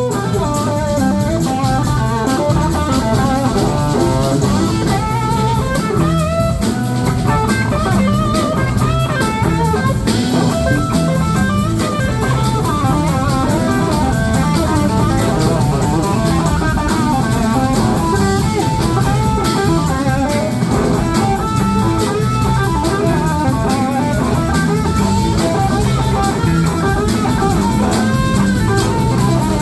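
Live blues-rock band playing an instrumental stretch: an electric guitar carries a fast, busy lead line over drum kit and bass, with no singing.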